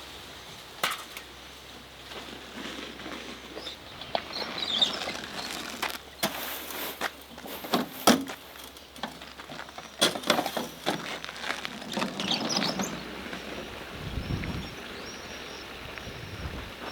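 Irregular knocks and clattering, loudest in the middle stretch, with a few short bird-like chirps.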